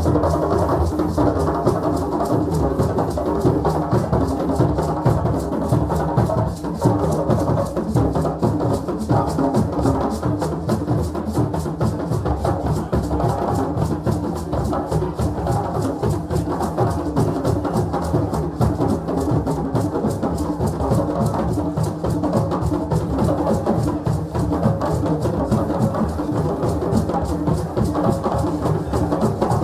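West African hand drums played in a fast, dense rhythm at a celebration, continuous without a break.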